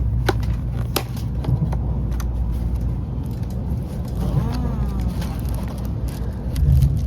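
Steady low rumble inside a shinkansen carriage running at speed, with a few sharp clicks and faint voices in the background.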